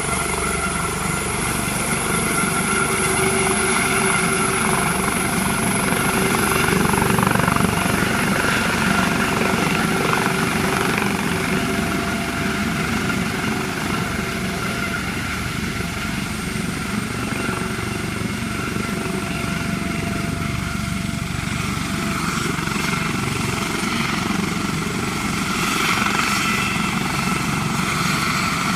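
A helicopter running steadily: a continuous rotor and engine noise with a few steady tones, swelling slightly louder and softer.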